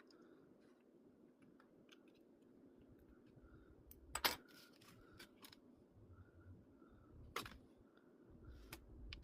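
Quiet room tone with a few sharp clicks, the loudest about four seconds in and another about seven and a half seconds in, among fainter scattered ticks.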